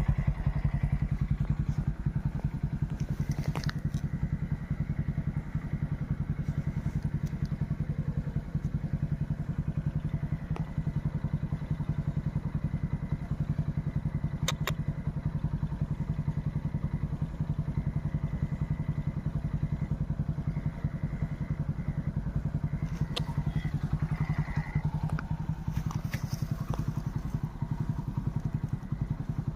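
An engine running steadily at an even speed, with a few sharp clicks or knocks over it.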